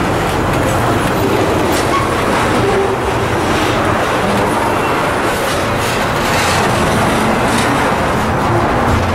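A train rolling past: a steady rumble of steel wheels on rail, with scattered clicks as the wheels cross rail joints.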